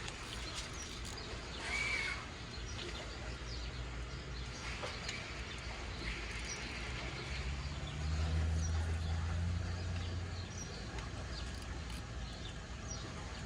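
Birds chirping now and then over a low outdoor background, with a low rumble swelling about eight seconds in and fading out.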